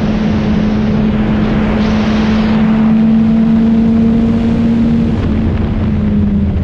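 Motorcycle engine running at a steady cruise under a rush of wind noise; the engine note drops slightly a little past halfway.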